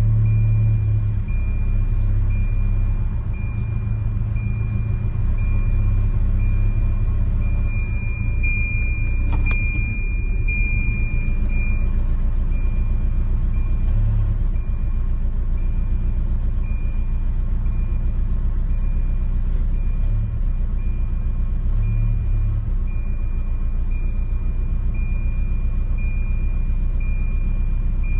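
Car engine idling roughly: a low, uneven rumble that swells and dips irregularly, the sign of a rough idle. A faint high whine runs through it, and there is a single click about nine seconds in.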